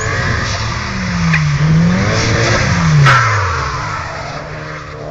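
Nissan 200SX drift car's engine revving as it slides, the pitch dipping and climbing again, then falling steeply past the middle as the revs drop away. A short sharp burst of noise comes about three seconds in, the loudest moment, followed by a steadier engine note.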